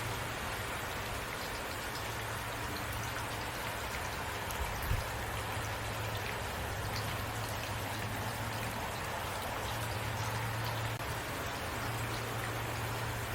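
Heavy rain falling steadily, an even wash of rain with individual drops ticking through it and a low steady hum underneath. One brief louder knock about five seconds in.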